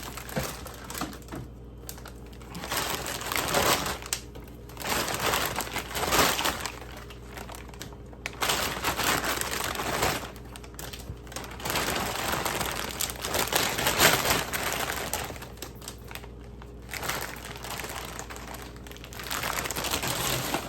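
Plastic packaging crinkling and rustling in a series of bursts a second or two long, with light clicks and knocks, as items are handled and moved.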